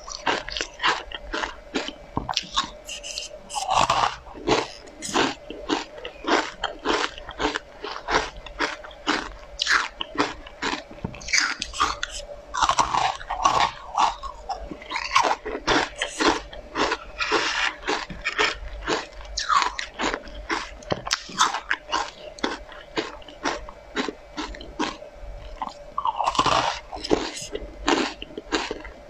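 Close-miked crunching and chewing of crunchy pink sweets, with sharp crisp crunches coming several times a second throughout.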